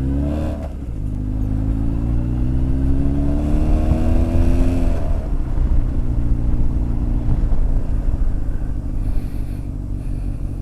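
Honda X4 motorcycle's inline-four engine pulling up through the revs, its pitch climbing steadily for about four seconds, then dropping back and running at a steady cruise.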